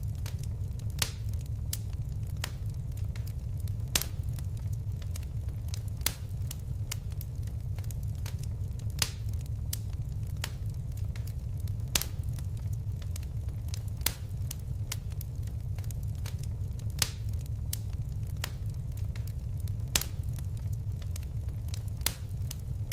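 Fireplace fire crackling: a steady low rumble of flames under many small sharp crackles, with a louder pop every two to three seconds.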